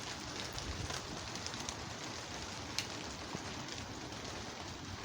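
Steady rain falling, an even hiss with scattered small patters and one sharp tick about three seconds in.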